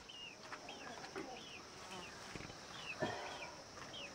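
Farmyard ambience: a small bird repeating short falling chirps roughly twice a second over a steady high insect hum, with light rustles and knocks of straw fodder being handled.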